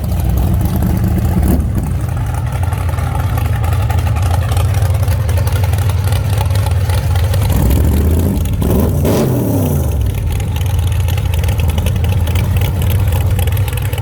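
Car engine running steadily at a low pitch; about nine seconds in, an engine note sweeps down in pitch over roughly a second.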